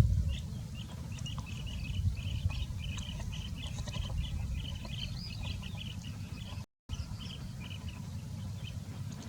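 Small birds chirping: a quick, busy run of short high chirps that thins out and grows fainter after about six seconds, over a steady low rumble. The sound cuts out completely for a moment about two-thirds of the way through.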